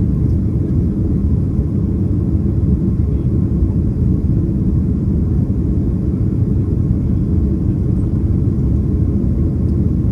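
Steady low rumble of a Boeing 767-300ER's engines and airflow, heard inside the passenger cabin during the climb after takeoff.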